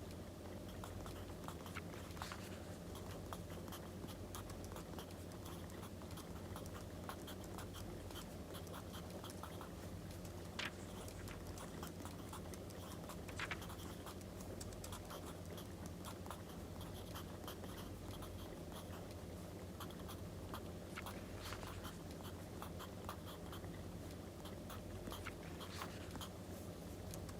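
Wood fire crackling with many small snaps and a few louder pops, over a steady low hum, with pencil-on-paper scratching mixed in.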